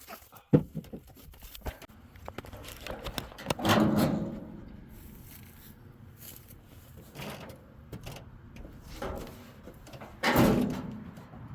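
Knocks and scrapes of the old truck being handled: a sharp knock about half a second in, then two longer scraping sounds, around four seconds in and near the end, with small clicks between.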